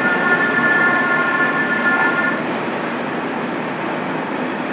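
Trains standing at a station platform: a steady rumbling hiss, with a held high tone that stops about two seconds in.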